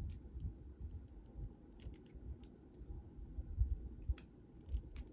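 Light, irregular clicks and taps of small jewelry pieces (earrings and metal findings) being handled, with soft low thuds.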